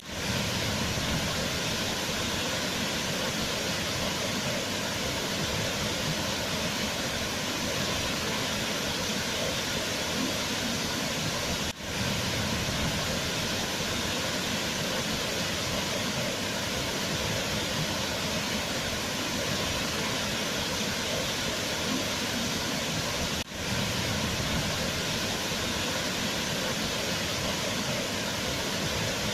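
Waterfall rushing in a steady, even roar of falling water. The sound drops out for a split second twice, about twelve seconds apart.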